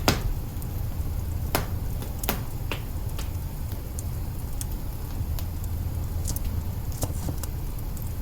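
Wood fire crackling in an open kitchen hearth: scattered sharp pops and snaps, the loudest right at the start, over a steady low rumble.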